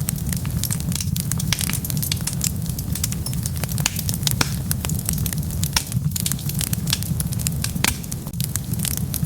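Wood fire burning, crackling steadily with a low rumble and frequent small pops, a few louder snaps scattered through.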